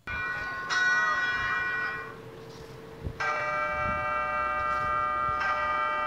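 Bells ringing: four strikes, at the start, just under a second in, about three seconds in and about five and a half seconds in, each tone ringing on steadily until the next.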